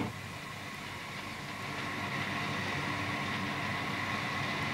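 Train running, a steady noise with a faint hum that slowly grows louder.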